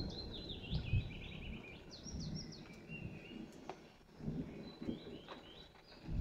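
Songbirds singing several short phrases as the tail of a thunder rumble dies away, with faint low rumbles of distant thunder swelling again a few times.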